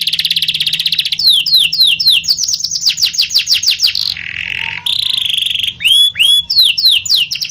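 Domestic canary singing a fast, varied song: rapid rolling trills and quick downward-sweeping notes, with a lower, buzzier phrase about halfway through.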